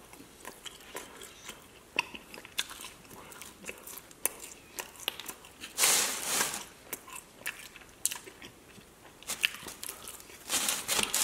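Chewing and sharp mouth clicks of someone eating a chicken wing. A louder, short noisy burst comes about six seconds in and again near the end.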